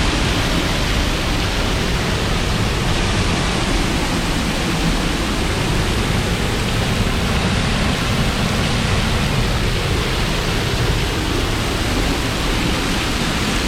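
Roar of a large waterfall, Thornton Force, close by: a steady, loud rush of falling water.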